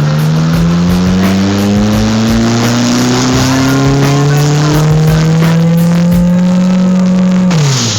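Car engine pulling hard, its pitch climbing steadily for about seven seconds, then dropping off sharply near the end as the throttle is lifted or a gear is changed.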